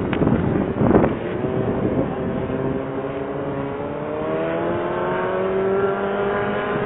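A motor vehicle's engine slowly rising in pitch as it accelerates, heard over wind rumble on the microphone.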